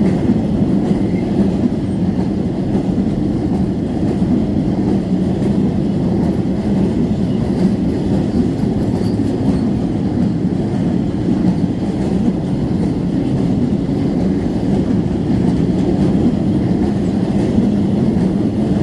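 Freight train rolling past, a loud, steady rumble of wheels on rails that neither builds nor fades.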